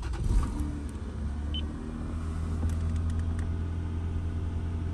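A Toyota 2JZ straight-six cranking and catching in the first half-second, then settling into a steady, smooth idle.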